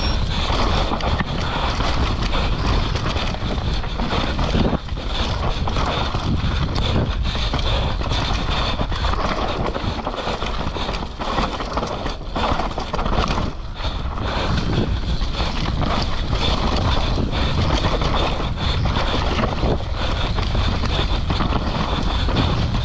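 Mountain bike ridden fast down a rough trail: steady rush of wind on the microphone, with frequent knocks and rattles from the bike over bumps.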